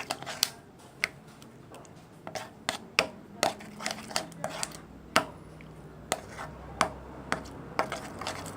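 A stirrer clicking and tapping against a container while thickening slime is mixed, in irregular sharp knocks a few a second.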